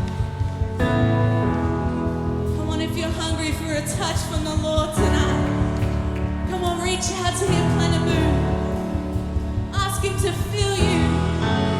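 Worship pop song with a band and singing voices, an electric bass holding long low notes that change every few seconds.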